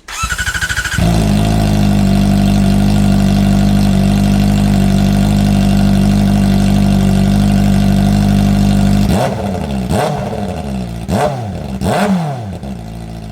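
Kawasaki Ninja ZX-4R's 399 cc inline-four with its stock slip-on muffler removed, so it runs with no muffler. The starter cranks for about a second before the engine catches and idles steadily. Near the end it is blipped four times in quick succession, and it settles back to a lower idle.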